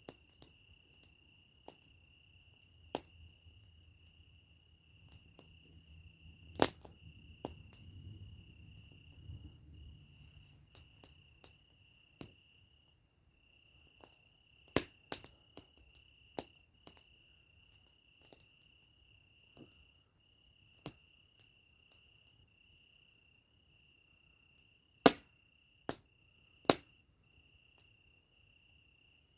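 Campfire crackling, with scattered sharp pops of burning wood, the three loudest near the end, over a cricket chirping steadily and high.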